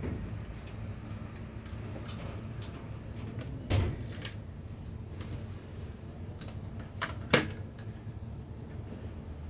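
Two sharp clacks about three and a half seconds apart, the second louder, over a steady low hum, with faint small ticks between them.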